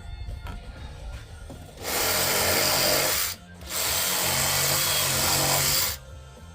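Handheld power tool cutting bark out of a log, run twice with a brief pause between: a first burst of about a second and a half, then a longer one of a little over two seconds.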